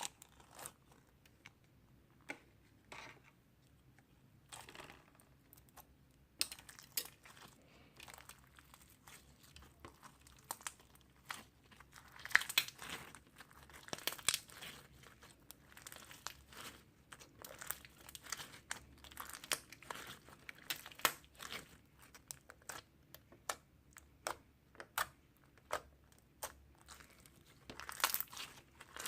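Irregular crinkling and crackling: many small sharp clicks and short rustles, busier from about six seconds in.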